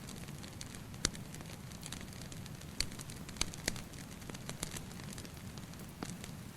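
Wood fire crackling, with a handful of sharp pops scattered over a steady low rumble.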